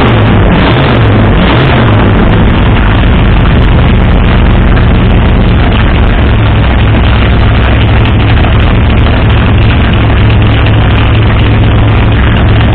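A 503-cubic-inch big-block Ford V8 with a big solid-lifter cam, running at idle after a cold start with open headers. It is loud and steady, with the pitch a little unsettled for the first couple of seconds.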